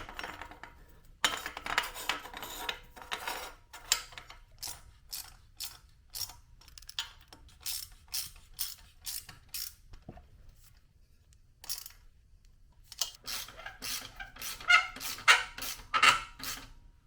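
Hand ratchet clicking in short repeated strokes, about two a second for several seconds, as the exhaust fasteners are tightened, with clinks of metal tools and parts. A denser, louder clatter of metal comes near the end.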